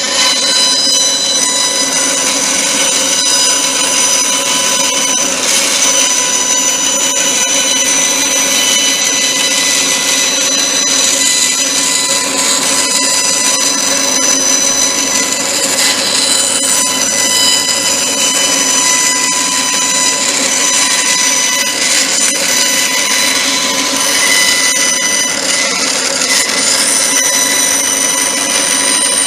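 Power saw running continuously with a steady high whine, cutting out a wooden beam pattern.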